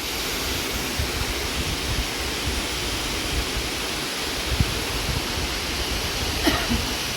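Steady rushing roar of a waterfall, with uneven low rumbling from wind on the microphone.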